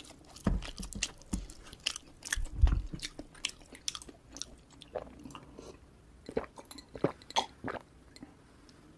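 A person chewing a hand-fed mouthful of rice and sambal close to the microphone: irregular wet mouth clicks and soft crunches, busiest in the first few seconds, then sparser, stopping near the end.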